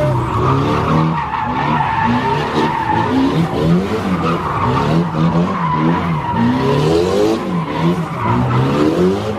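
Drift car sliding with its tires squealing steadily while the engine revs rise and fall over and over as the driver works the throttle.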